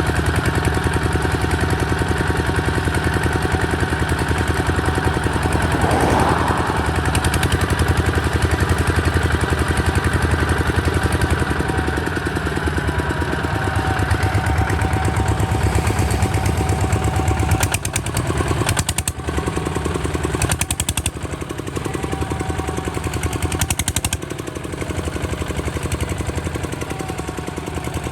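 Kubota ZT 155 DI single-cylinder diesel engine running steadily with fast, even exhaust beats. A little past halfway it gets quieter and more uneven, with a few short bursts of sharp rattling.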